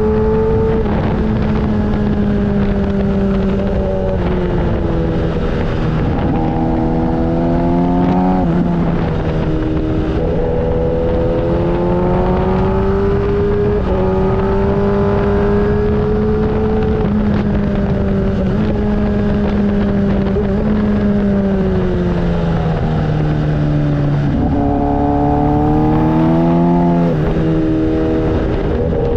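Motorcycle engine running while riding, its note rising and falling with the throttle and dropping sharply at gear changes a few times, over steady wind and road rumble.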